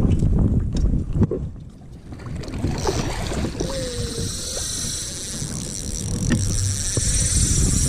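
Water and wind around a fishing kayak: a steady low rumble of water against the hull and wind on the microphone, with a few small knocks on the boat.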